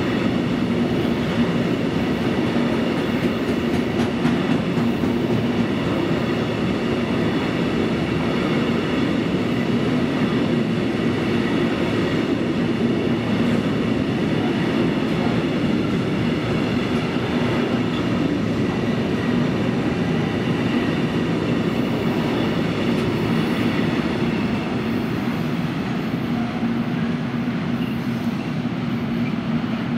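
Long freight train of intermodal flat wagons, loaded with containers and swap bodies, rolling steadily past: a continuous rumble of wheels on rails with faint steady high ringing tones. It eases off slightly near the end.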